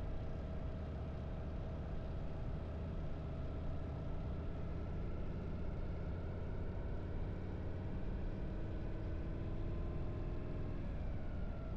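Harley-Davidson V-twin motorcycle engine running steadily under way, with small shifts in pitch and a slight drop near the end.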